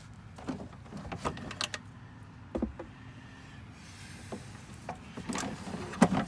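Irregular clicks and knocks of parts and tools being handled in an engine bay, with the loudest knock near the end.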